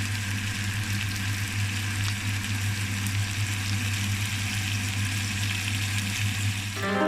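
Food frying in a hot pan: a steady crackling sizzle over a low steady hum. Plucked-string music comes in near the end.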